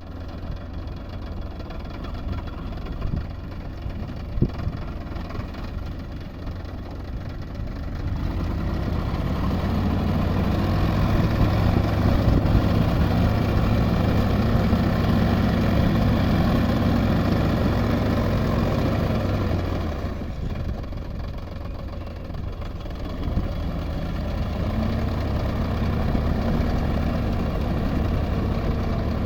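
Tractor diesel engine running steadily, growing louder about eight seconds in and easing off again about twenty seconds in.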